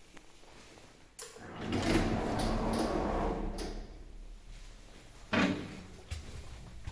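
Passenger lift's automatic sliding doors running with a rumble and a few clicks, starting about a second in, then a sharp clunk about five seconds in.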